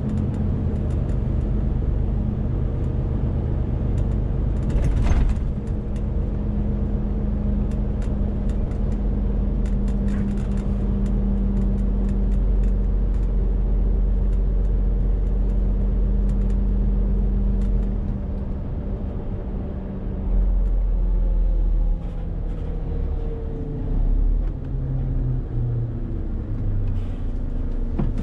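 Renault T520 truck's 13-litre six-cylinder diesel engine running steadily under load. After about eighteen seconds the engine note falls, then steps up and down several times near the end, with a sharp click about five seconds in.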